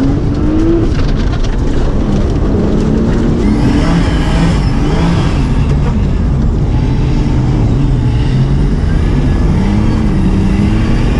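Drift car's engine heard from inside the cabin, its note rising and falling as the throttle is worked through a slide on ice.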